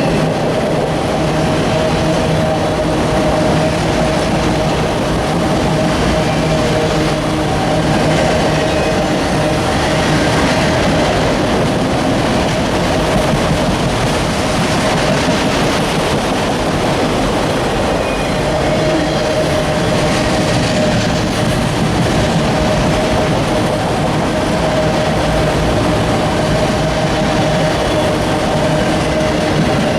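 Train rolling past on the rails, its cars clattering steadily over the track with a steady whine running through the noise.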